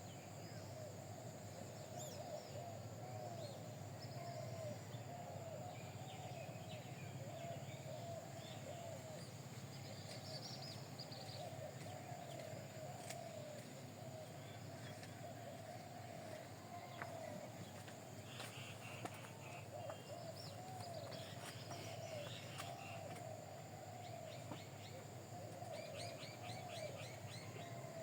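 Many birds calling together in continuous chatter: short, repeated arching calls with scattered higher chirps and a few quick trills, over a steady low hum.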